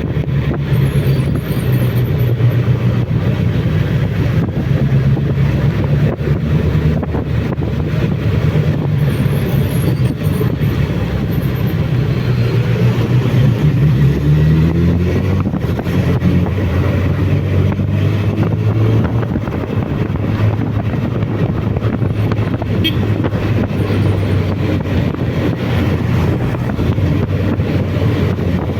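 Suzuki Bandit motorcycle's inline-four engine running steadily while riding. About halfway through the engine note climbs briefly, then settles at a lower steady pitch.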